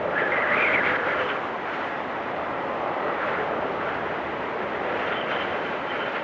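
Blizzard wind rushing steadily, with a stronger gust in the first second and a faint high whistle about five seconds in.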